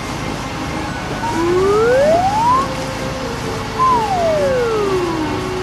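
Cartoon whistle sound effect gliding up in pitch, then after a short pause gliding back down, over a steady background.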